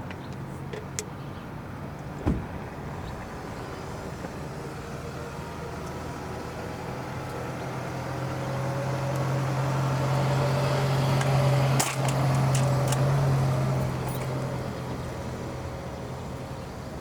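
Motor vehicle engine humming at a steady low pitch, growing louder through the middle and fading near the end, with a single sharp knock about two seconds in.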